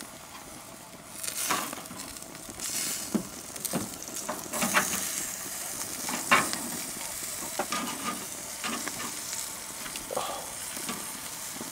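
Steaks and chicken kebabs sizzling on a propane barbecue grill, a steady hiss of searing meat. Scattered clicks and scrapes of metal tongs against the grate break in every second or two as the meat, sticking to the grill, is turned.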